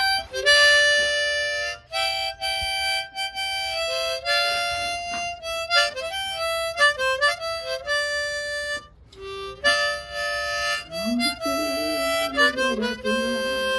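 Harmonica playing a solo tune: a melody of held and stepping notes, with a brief break about nine seconds in.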